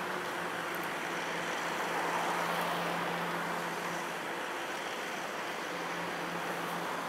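A train running steadily: a constant low hum over an even rushing noise that swells slightly about two seconds in.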